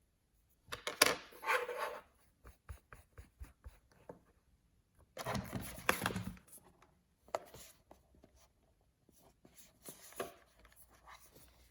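Toy packaging being handled and opened: rustling and crinkling of paper and wrapping about a second in and again around five to six seconds in, with scattered light taps and clicks between.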